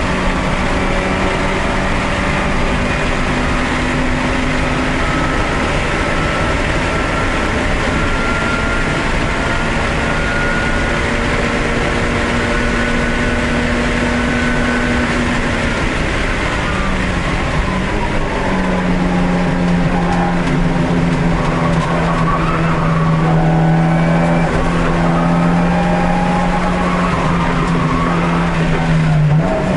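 Race car's engine heard from inside the cabin, pulling hard with its pitch slowly climbing along a long straight, then dropping as the car brakes and shifts down a little past halfway, before running on at a lower steady note under power through the turns.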